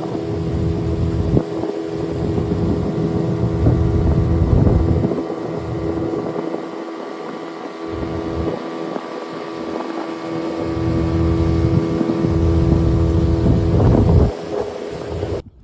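A boat's outboard motor running at full throttle, a steady drone, with wind buffeting the microphone in gusts. It cuts off abruptly just before the end.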